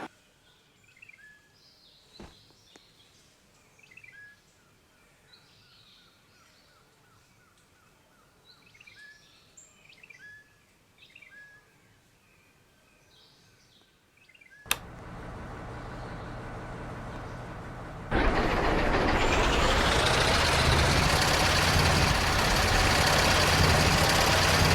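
Faint bird chirps over quiet background. About 15 s in, an engine starts after a click and runs steadily. About 18 s in, a much louder engine sound cuts in, rising in pitch over a couple of seconds, then holding steady.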